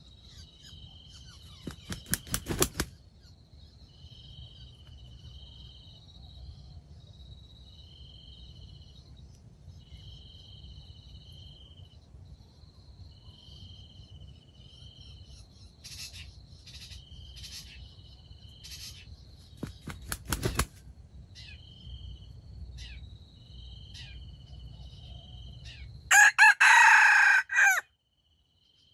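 A wild junglefowl rooster crows once, loud and short, near the end, over insects chirping in a steady pulsing rhythm. Two brief bursts of wing-flapping come a couple of seconds in and again past the middle.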